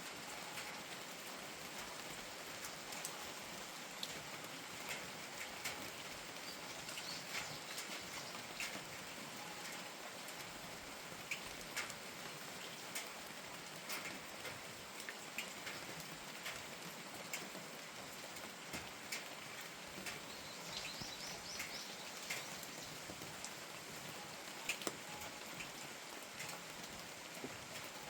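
Steady rain, an even hiss, with many single drops ticking sharply at irregular moments.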